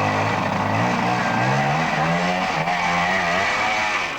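Trials motorcycle sidecar outfit's engine revving, its pitch rising and falling again and again as the rider works the throttle.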